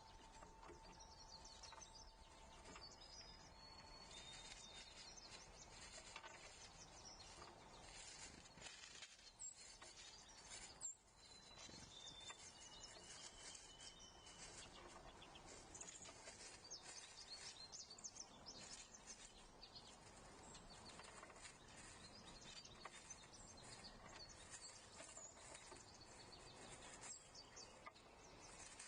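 Faint outdoor ambience with scattered wild songbird calls and chirps, including a few short whistled notes a few seconds in and again around the middle.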